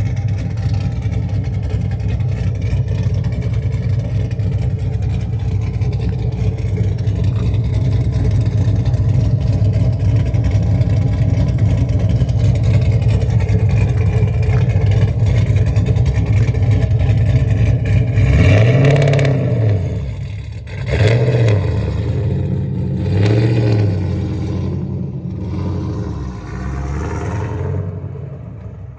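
Camaro SS V8 with an aggressive aftermarket cam, running loud and steady at raised revs for about eighteen seconds. It then gets three quick throttle blips that rise and fall in pitch, and settles down near the end.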